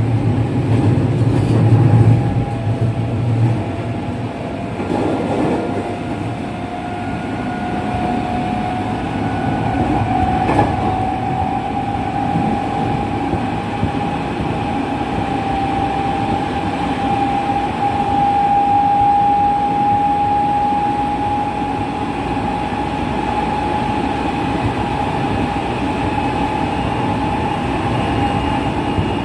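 Running sound of a JR West 207 series electric train, set Z7, with its original traction motors: the motors whine on one tone that rises slightly in pitch over the first two-thirds and then holds steady, over the rumble of wheels on rail. A single sharp click comes about ten seconds in.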